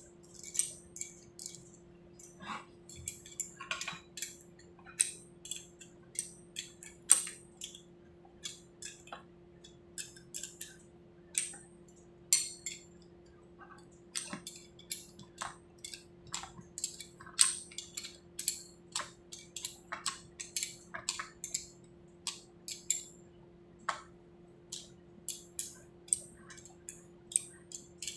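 Small metal parts and tools clinking and tapping against each other in a quick, irregular run of sharp clicks, with a steady low hum underneath.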